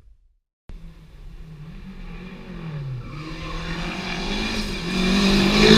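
A rally car's engine comes in after a short gap and approaches at speed. The revs dip about two seconds later and then climb again, and the engine grows steadily louder, loudest near the end.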